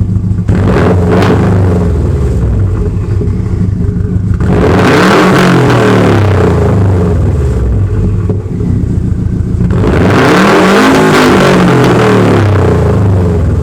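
2016 Subaru WRX STI's turbocharged EJ257 flat-four engine revved through an ETS Extreme cat-back exhaust with no mufflers or resonators. A short blip comes about half a second in, then two long revs about five and ten seconds in, each climbing and falling in pitch before settling back to idle.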